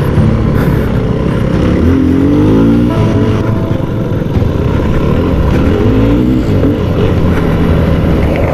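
2013 Yamaha WR250F's single-cylinder four-stroke engine running under way off-road, its pitch rising as it is revved about two seconds in and again around six seconds.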